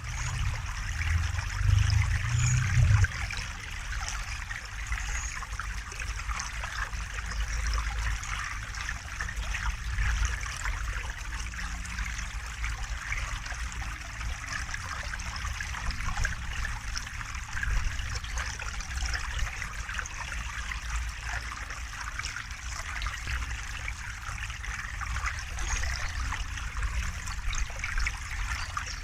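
River water flowing steadily, a continuous trickling rush, over a low rumble that swells for a couple of seconds near the start.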